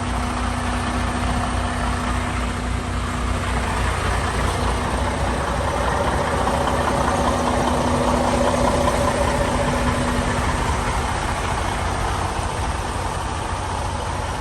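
Semi-truck diesel engine idling with a steady low rumble; the noise swells for a few seconds around the middle and then settles.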